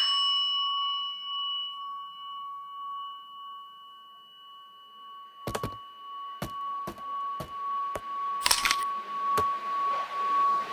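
A single bell-like ding that rings out slowly over a steady high tone, then a run of sharp clicks or knocks from about halfway in, roughly two a second.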